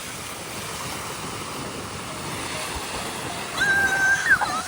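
Sea water washing with wind buffeting the microphone. A little over three seconds in, a louder high held tone comes in over it and bends at its end.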